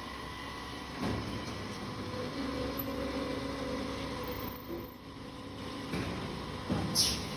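Automatic copper tube end forming and flattening machine running with a steady hum. A knock comes about a second in, and another knock with a short hiss comes near the end.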